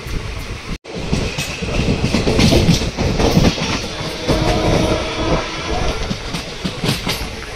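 Passenger train running at speed, its wheels clattering over rail joints and points with a steady rumble underneath, heard from the coach's open side.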